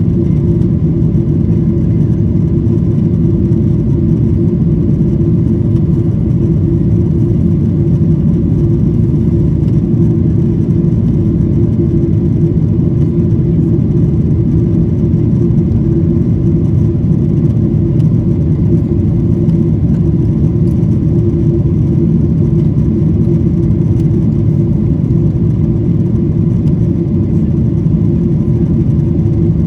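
Airplane's steady low engine drone, holding even with no change in pitch or level.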